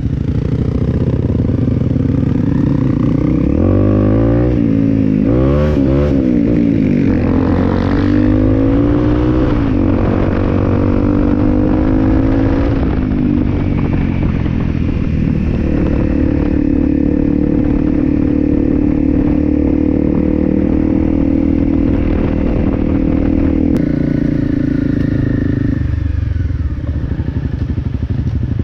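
Honda CRF250L single-cylinder four-stroke engine pulling away and accelerating through the gears, its pitch climbing and dropping with each shift. It then settles to a steady cruise before easing off near the end.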